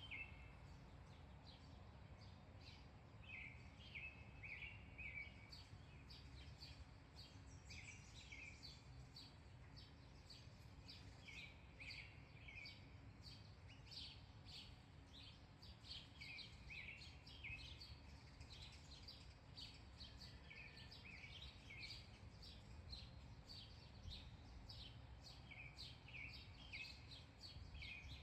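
Faint birdsong: many small birds chirping in short repeated calls throughout, over a steady low outdoor rumble.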